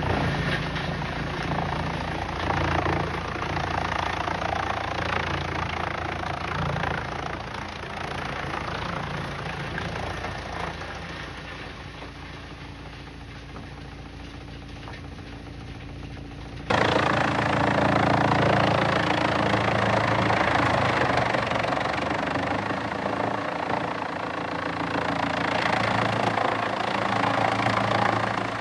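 Heavy engine-driven machinery running steadily, with a low engine hum under a noisy mechanical wash. A little over halfway through the sound cuts abruptly to a louder run of machine noise.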